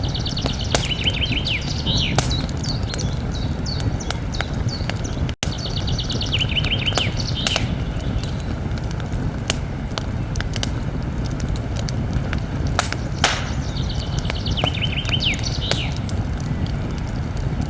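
Campfire crackling with frequent sharp pops and snaps over a steady low rumble of burning wood, while a songbird sings a short rapid trilled phrase three times. The sound cuts out for an instant about five seconds in.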